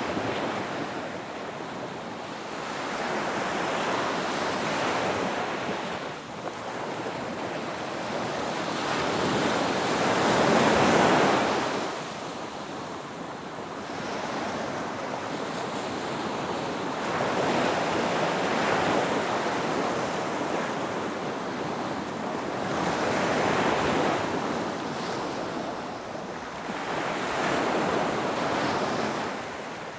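Ocean waves breaking on a beach, one after another, the surf swelling and fading every few seconds, with the loudest wave about a third of the way in.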